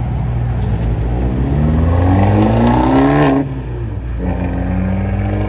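Fiat 500 hatchback pulling away and accelerating hard, its engine revving up, dropping at a gear change about three and a half seconds in, then revving up again in the next gear.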